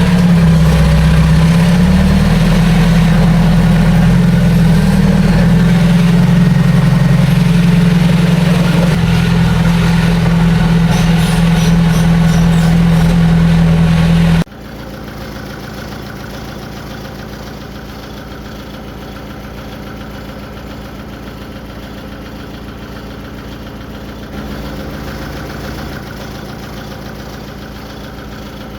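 Heavy diesel engine of earthmoving machinery running steadily, its pitch dipping briefly near the start. About halfway it cuts suddenly to a quieter, steady engine sound.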